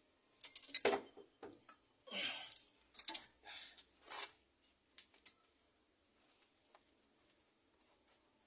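Hand tools and metal engine parts being handled: a run of sharp clicks and knocks with a few short scraping swishes in the first half, thinning to faint scattered ticks.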